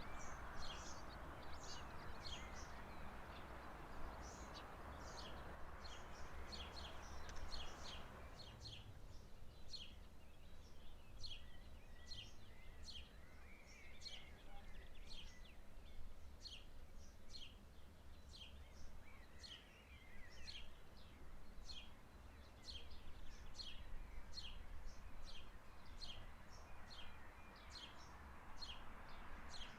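A bird repeating a short, high chirp that drops in pitch, about one to two times a second, over a low outdoor rumble. A soft hiss in the background stops about eight seconds in.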